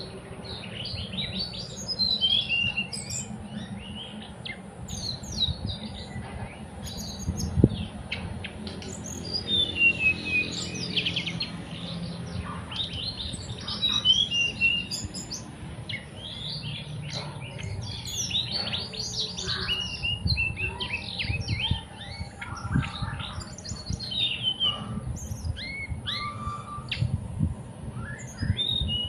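A teledekan gunung singing: rapid high chirps and short runs of notes falling in pitch, repeated without a break, over a low steady rumble.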